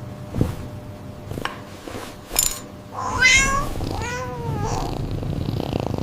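A cat meows twice about three seconds in, the second meow lower-pitched than the first. A few light taps come before the meows.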